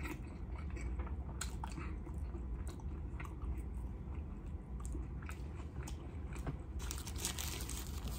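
Close-miked chewing of a mouthful of toasted everything bagel with lox and cream cheese, with many small mouth clicks. Near the end, a crinkling of the paper wrapper as another bagel sandwich is picked up.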